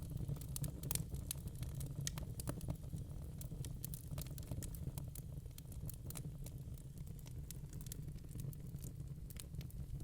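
Wood fire burning in a fireplace: logs crackling with irregular sharp pops and snaps over a steady low rumble of flame.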